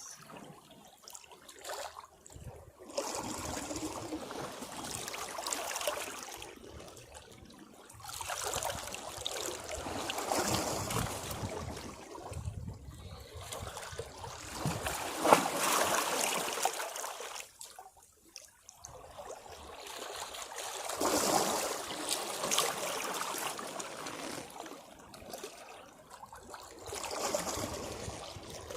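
Sea waves breaking against rocks, each wave surging in and draining back every few seconds with trickling water between them; the sharpest splash comes about halfway through.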